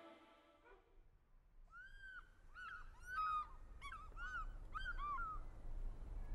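A bird giving a series of about seven or eight short calls that each rise and fall in pitch, starting about two seconds in and stopping shortly before the end, over a faint low rumble that grows near the end.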